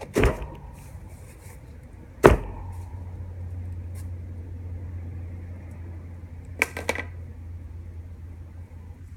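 A broom striking a metal wire dog cage: two sharp bangs about two seconds apart, each leaving a brief metallic ring, then a couple of lighter clatters.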